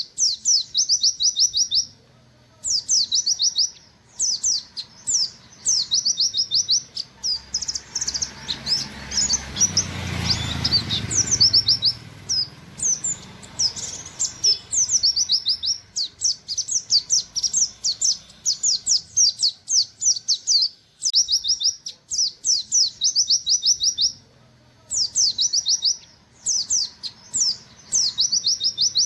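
White-eye (pleci) singing its rapid-fire 'nembak' song: fast runs of short, high 'wit wit' notes, each dropping in pitch, given in bursts of a second or two with brief pauses. A low rumble of noise comes in under the song around a third of the way in.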